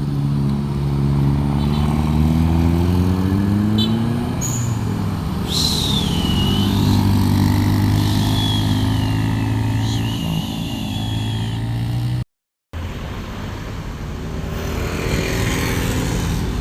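Heavy diesel truck engine working hard on a steep climb, its pitch rising over the first few seconds and then holding steady under load. A high, wavering squeal rides over it for a few seconds in the middle. The sound cuts out briefly about twelve seconds in, then traffic noise resumes.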